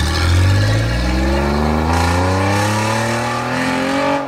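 V6 engine of a Peugeot 406 under a Ferrari 360 replica body, accelerating away in one long pull, its note rising steadily in pitch. It is the sound of a V6 Peugeot, not a Ferrari V8.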